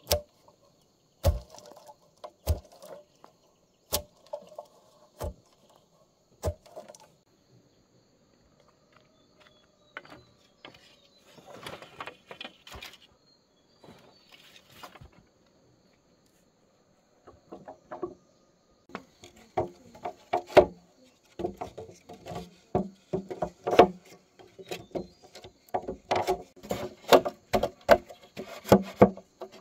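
A series of sharp knocks about a second apart, then, after a quieter stretch, a dense run of clattering knocks, like hard objects being struck or handled.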